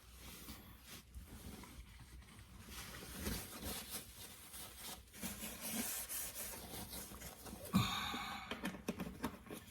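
Quiet handling noises while motor oil is poured from a bottle into a new spin-on oil filter to pre-fill it. There is soft rustling and small clicks, and a short squeaky sound near the end.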